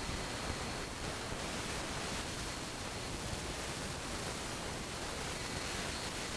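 Steady even hiss of background noise with a faint high steady tone through it; no distinct knocks, clicks or tool sounds.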